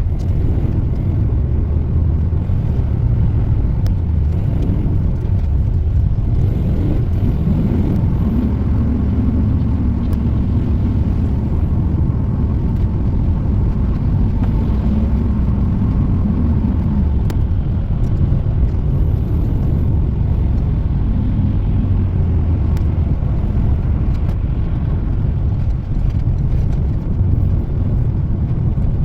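Steady engine and road rumble heard from inside a moving vehicle's cabin.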